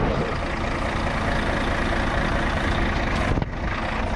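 Vehicle engine running steadily during an attempt to pull a stuck car free, with a brief dip about three and a half seconds in.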